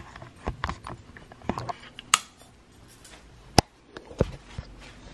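Scattered sharp knocks and clinks of things being handled, about half a dozen over five seconds, the loudest about three and a half seconds in.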